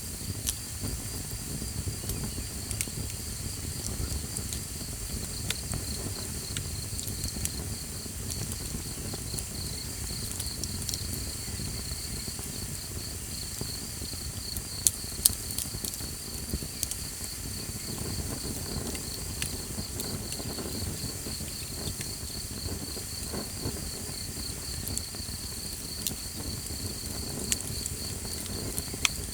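Small campfire crackling with scattered pops, two louder ones about halfway through, over a steady, evenly pulsing insect chirp and a low rumble.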